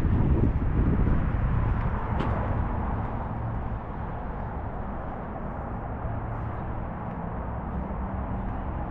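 Outdoor road traffic: a low rumble, loud for the first couple of seconds and fading as a vehicle passes, then settling to a steady quieter traffic drone.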